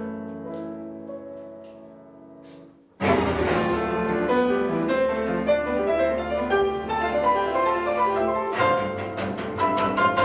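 Live chamber music of piano with bowed strings. A soft, sustained passage fades almost to nothing, then about three seconds in a loud, fast passage breaks in suddenly. Near the end it turns into sharp, evenly repeated accented strokes.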